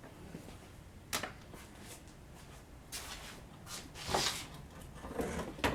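Scattered light knocks and clinks from the door window frame and its loosened glass being handled, the strongest about four seconds in, over a low steady hum.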